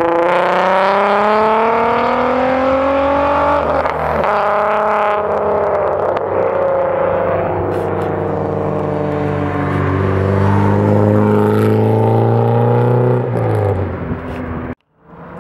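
Lowered Mk4 Volkswagen Jetta accelerating hard away, its engine note climbing steadily in pitch with a brief break about four seconds in. Later another car's engine rises as it drives by and falls away near the end, just before the sound cuts off suddenly.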